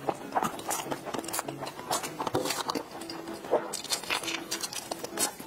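Close-miked wet chewing and lip-smacking of soft durian mille-crepe cake, with small clicks and scrapes of a metal spoon in a plastic container.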